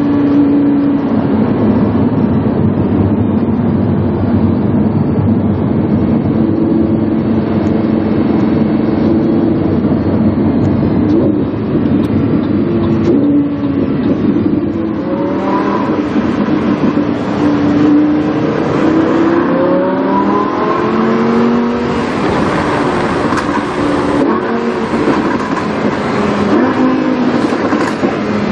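Lamborghini Huracán's V10 engine through a PowerCraft aftermarket exhaust, heard from onboard. It runs at a steady pitch for about the first half, then from about halfway it revs up and down repeatedly, rising and falling through gear changes.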